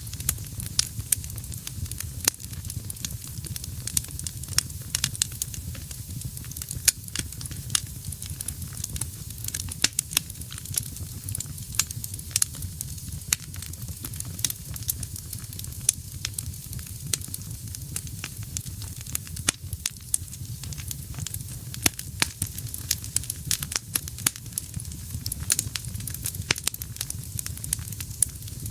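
Wood fire in a fireplace burning steadily, with frequent irregular sharp crackles and pops over a low steady rumble of the flames.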